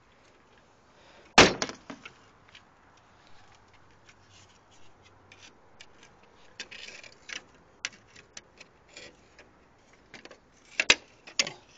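A single loud bang about a second and a half in, with a couple of fainter knocks after it, then scattered small clicks, knocks and rattles of handling, with a sharper cluster of clicks near the end.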